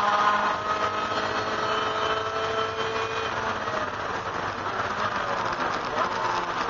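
A 1999 Mazda MX-5 Miata race car's 1.8-litre four-cylinder engine, heard from inside the stripped cabin, holding a steady high note down a straight. About three seconds in, the note breaks up into a rougher sound as the car slows for a corner.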